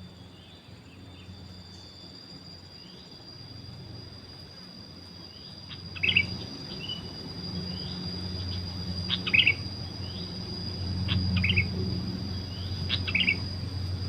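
Short bulbul calls, four in all, spaced a few seconds apart from about halfway in, over a steady high insect drone and faint repeating chirps. A low hum rises at the same point.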